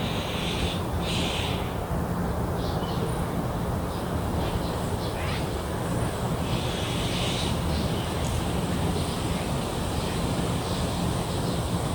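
Steady low rumble of distant city traffic, with birds calling twice, about a second in and again around seven seconds, over a faint steady high insect-like hum.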